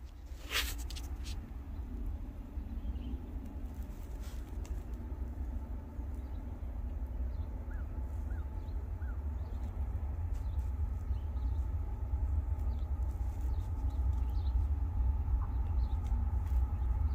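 Distant freight train approaching: a low rumble that builds steadily, with faint steady tones rising out of it in the second half. A few small bird chirps come through in the middle.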